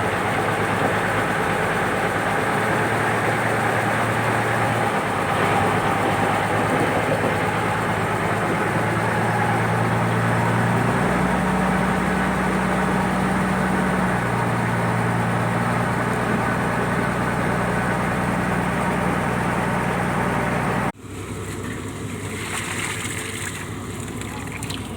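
Purse-seine fishing boat's engine running steadily, its pitch shifting for a few seconds midway; about 21 seconds in it cuts off abruptly to a quieter background.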